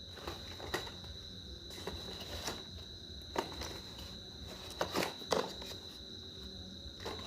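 A steady high-pitched tone, like an insect trill, with a few scattered clicks and knocks, the loudest about three and a half and five seconds in.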